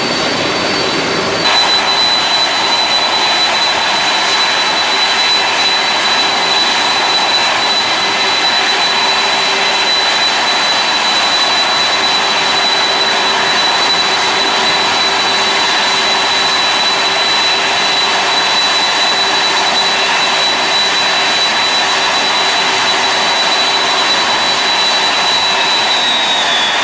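Jet airliner engines running steadily with a high turbine whine over a broad rushing noise; near the end the whine begins to fall in pitch as the engines spool down.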